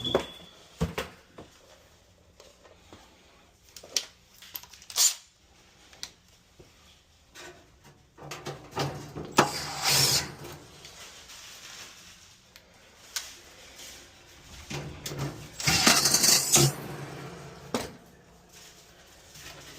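Tools and metal dryer parts clicking and clanking during repair work. Two short whirring bursts, about halfway through and again near the end, sound like a power driver running screws.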